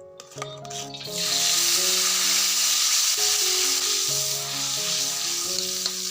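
Food sizzling in hot oil in a pan, starting suddenly about a second in and running steadily, with soft background music.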